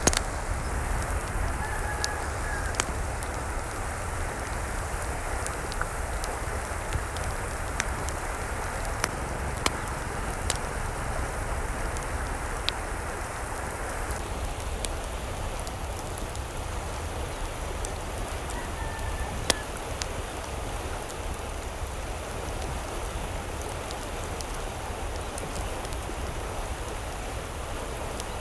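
Steady rain falling, with scattered sharp drip ticks over a low rumble. Two faint short chirps come through, a couple of seconds in and again past the middle.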